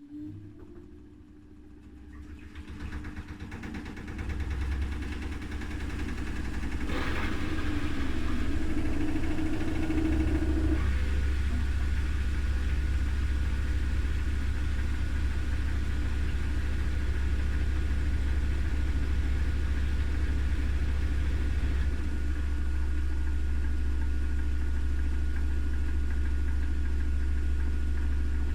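Haier I-Pro Series 7 HW80-B14979 front-loading washing machine's drum speeding up into a spin: the motor's whine rises and grows louder over the first several seconds, then levels off about ten seconds in to a steady, loud hum and vibration at spin speed.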